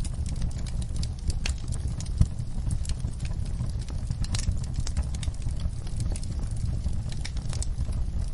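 Fire crackling in a fireplace: irregular sharp pops over a steady low rumble, with one louder pop about two seconds in.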